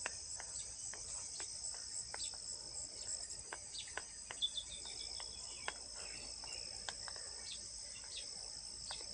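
Crickets trilling in a steady, high-pitched chorus, with a short run of bird chirps about four and a half seconds in and scattered faint clicks.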